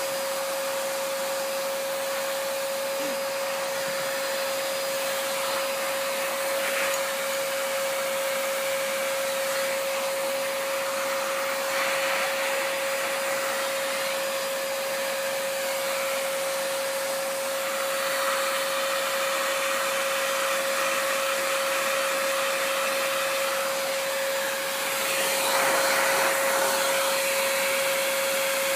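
Vacuum cleaner running steadily: a constant motor whine over the rush of its airflow. The airflow sound shifts a few times and swells louder toward the end.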